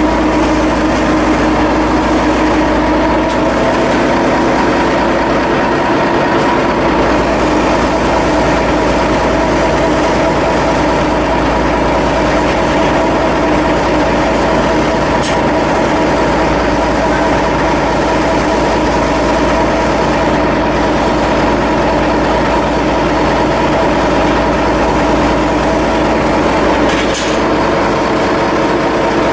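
Ship's diesel engine machinery running steadily: a loud, constant hum with several steady tones.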